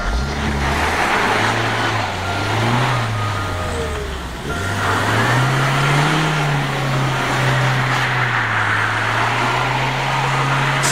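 Chevrolet Niva SUV's engine revving up and down as the car slides in circles on packed snow, then holding a steadier pitch, over a constant hiss.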